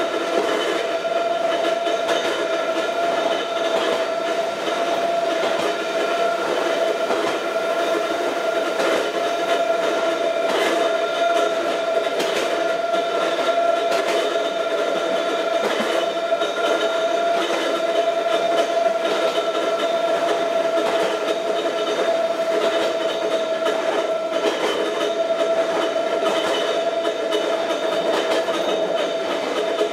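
Ohmi Railway MoHa 224 electric railcar running steadily, heard from inside the car: a steady whining tone over the rumble of the wheels, with occasional clacks as the wheels pass rail joints.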